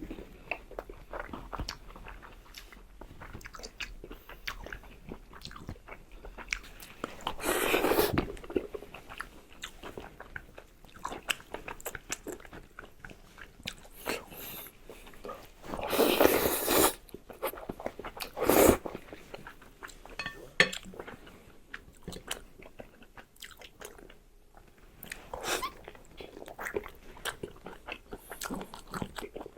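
A person eating close to the microphone: many small chewing and biting clicks, with a few louder noisy bursts about eight seconds in and again around sixteen to nineteen seconds in.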